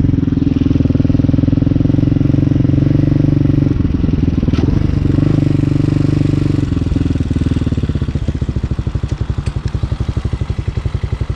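Hawk 250 dirt bike's single-cylinder four-stroke engine running at low, steady revs, easing off briefly a few seconds in, then dropping to a slower, pulsing beat near idle for the last few seconds.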